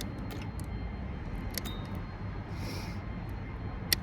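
Hand cutters snipping wire: a few sharp clicks, the loudest near the end, over a low steady background rumble.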